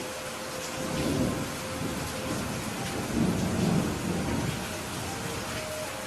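Steady heavy rain with thunder rumbling low, swelling about a second in and again from about three to four and a half seconds.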